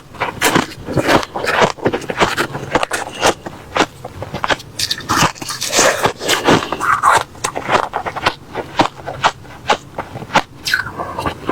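Refrozen crushed ice being bitten and chewed, a rapid, irregular run of sharp crunches.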